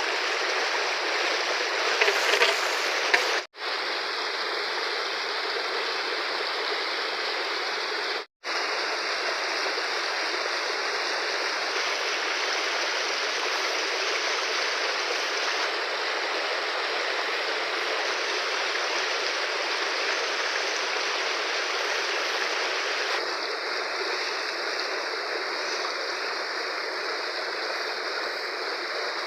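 Fast-flowing river water rushing steadily, with a few brief louder splashes or knocks about two to three seconds in. The sound drops out twice for an instant, once a few seconds in and again about eight seconds in.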